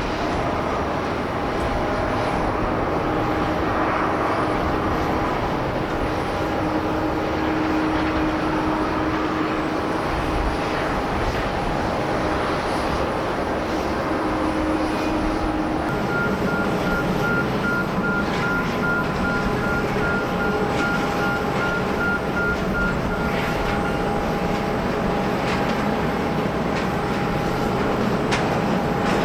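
Jet airliner engines running steadily as a plane comes in to land, with a whine of several steady tones. About halfway through, the tone changes and a lower rumble joins.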